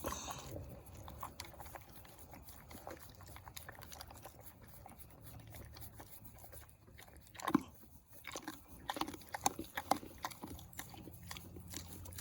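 A pig chewing and smacking on food, with many small crunching clicks and one louder knock about seven and a half seconds in.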